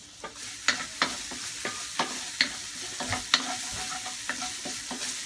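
Sliced ginger sizzling in hot sesame oil in a frying pan, with a spatula clacking and scraping against the pan again and again as it is stirred. The sizzle picks up just after the start.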